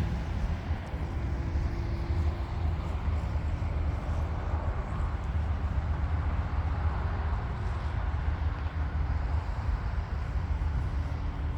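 Model airplane's engine and propeller running steadily in flight, under heavy low wind rush.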